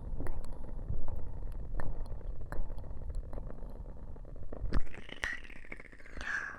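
Ear cupping on a 3Dio binaural microphone: hands pressing and rubbing over its ears give a muffled low rumble, with brief hissy rubbing toward the end. Scattered crackles of a wood-wick candle pop through about once or twice a second.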